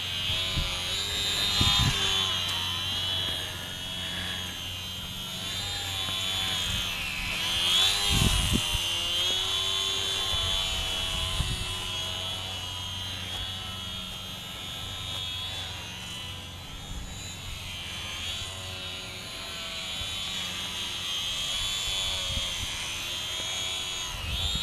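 Electric motor and propeller of a HobbyZone Carbon Cub S2 RC airplane in powered flight: a high whine that wavers up and down in pitch as throttle and distance change. A few low thumps come about eight seconds in.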